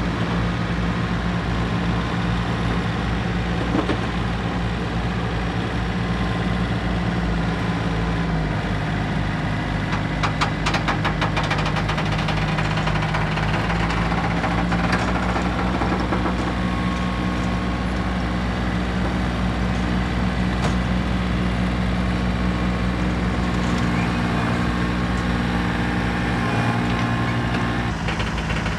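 Diesel engine of a farm tractor running steadily, its engine speed stepping down and up a few times. A short run of clattering comes about ten seconds in.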